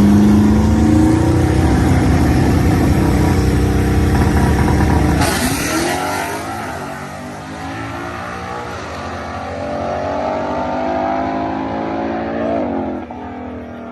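Drag-racing street car's engine running hard under acceleration, held at high revs for about five seconds. Then the pitch drops sharply, climbs again, and falls away near the end.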